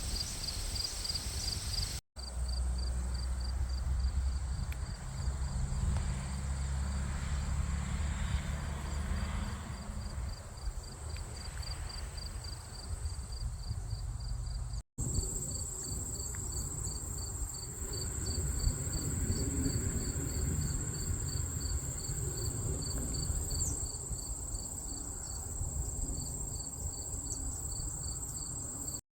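Insects calling: a steady high buzz with a fast, regular chirping pulse beneath it, over a low rumble. The sound drops out briefly twice.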